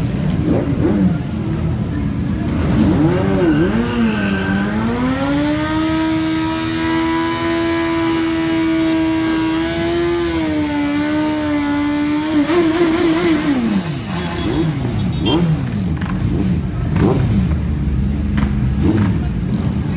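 Superbike engine revving hard: a few quick blips, then revs held high and steady for about seven seconds, a few more quick blips, and a drop back down. Shorter rev blips follow near the end.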